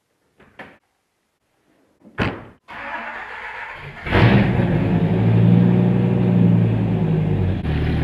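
A 1994 Dodge Viper RT/10's 8.0-litre V10 being started: a few clicks, a short spell of cranking, then the engine catches about four seconds in and settles into a steady, low rumbling idle.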